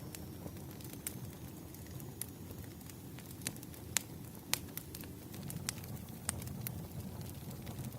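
Burning firewood crackling, with irregular sharp pops and snaps, a few louder than the rest, over a steady low rumble.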